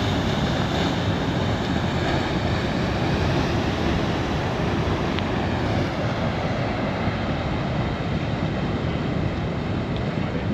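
Rough surf at high tide: a loud, steady rush of waves breaking against a seawall.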